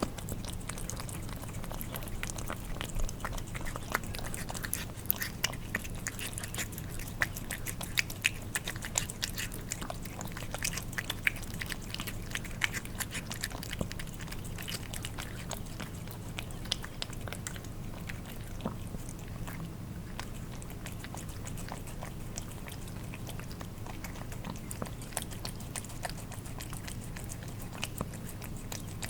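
Cats eating wet food: rapid wet clicks and smacks of licking and chewing, thickest in the first half and thinning out later.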